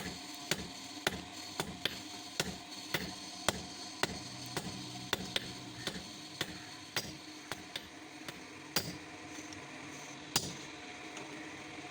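A hand hammer striking metal on an anvil during forging, about two blows a second, then slowing to a few single blows in the second half.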